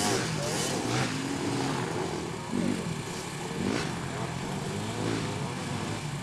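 Several small off-road racing engines on three-wheelers and youth quads revving hard at once, their pitch climbing and dropping as riders open the throttle and shift. A louder rising sweep comes a little before the middle, as one machine passes close.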